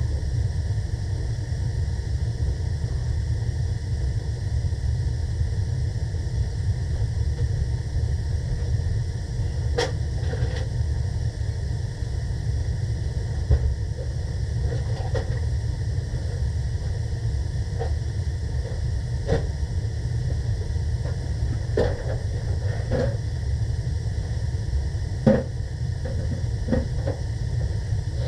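Steady low rumble of a gas heating unit running on its newly replaced gas valve, with scattered clinks and knocks of hand tools being packed away.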